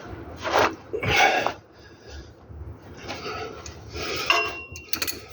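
Irregular scraping and rubbing noises of hands and tools at work on the car, in short bursts of differing length, with a brief thin squeak about four seconds in.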